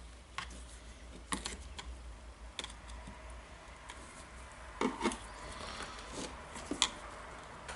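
Scattered small clicks and taps of wires and plastic handle parts being handled and pushed into place with a screwdriver inside a power-drill handle, several sharp ones about five and seven seconds in.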